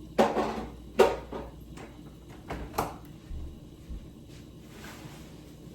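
Kitchen clean-up clatter: a handful of sharp knocks and clanks of kitchen items being handled and set down, the two loudest about a quarter second and one second in, then a few lighter ones.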